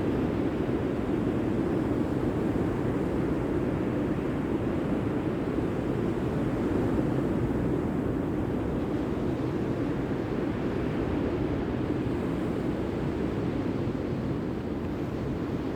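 Steady rushing noise of sea surf, even throughout without distinct breaks.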